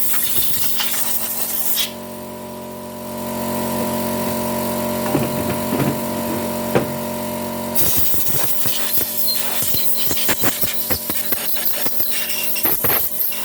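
Compressed air hissing from a blow gun as diesel is blasted off a motorcycle engine's crankcase, with an air compressor's motor humming steadily underneath. The hiss stops about two seconds in and starts again with short sputtering blasts about eight seconds in.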